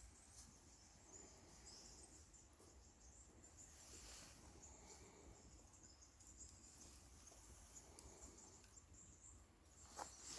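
Near silence: faint outdoor ambience with a thin, steady high-pitched drone and a few faint clicks near the end.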